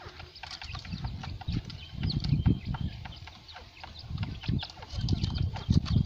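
Many short, high chirps and clicks from birds, over a low rumble that swells about two seconds in and again near the end.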